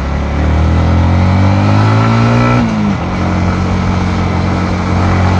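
Yamaha MT-15 V2's single-cylinder engine accelerating, its pitch rising for about two and a half seconds, then dropping abruptly and holding steady at a lower pitch.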